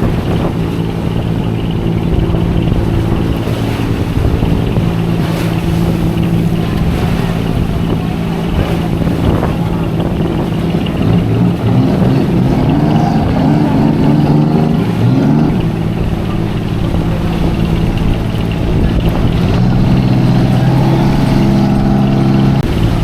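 Boat engine running steadily, revving up and wavering in pitch through the middle of the clip and revving up again near the end, over a low rumble.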